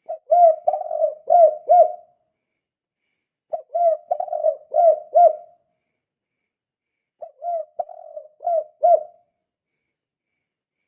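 Spotted dove (tekukur) singing its 'kuk 2' song: three phrases of several rounded coos each, repeated about every three and a half seconds.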